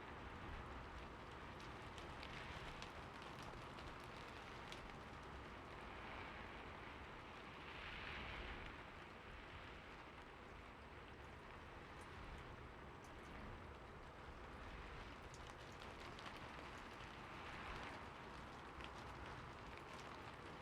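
Slow, light rain falling steadily, with scattered single drops ticking and a brief swell about eight seconds in.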